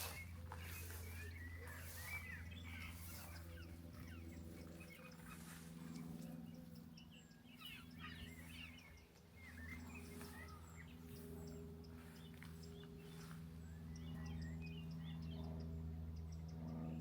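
Small songbirds chirping and twittering in short, scattered calls. Walking footsteps tread about twice a second in the first few seconds, over a steady low hum.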